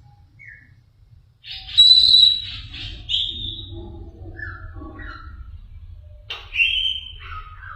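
Blue-crowned hanging parrot (serindit) giving high, thin whistled calls: a loud one about two seconds in, shorter ones after it, and another near the end, over a low steady hum.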